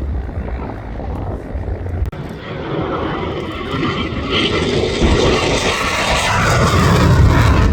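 Jet noise from a Boeing F/A-18 Super Hornet's twin turbofan engines, growing steadily louder as the jet approaches, with a rushing hiss that peaks near the end.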